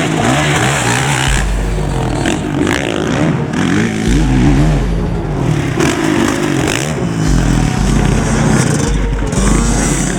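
Honda CRF four-stroke motocross bike engine revving hard, its pitch climbing and dropping again and again as the throttle is worked through the gears, with heavy wind rumble on the microphone.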